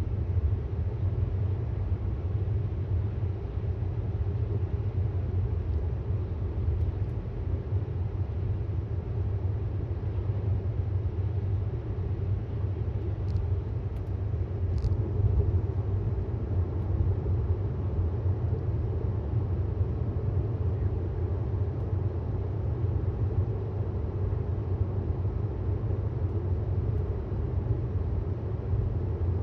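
Steady low road and tyre rumble of a 2018 Tesla Model S 75D driving at speed, with no engine note because the car is electric.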